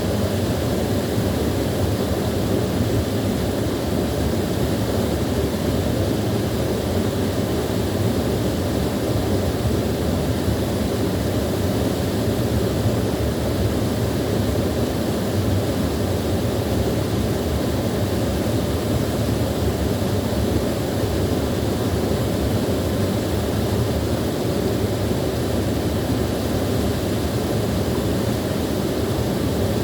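Small waterfall: water pouring and splashing in a steady, unbroken rush, strongest in the low end.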